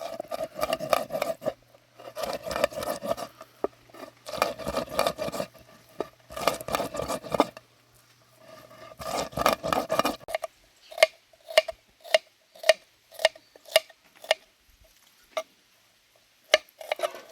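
A metal utensil clattering against metal cookware. Five runs of quick, ringing taps give way to single taps about twice a second, with another quick run near the end.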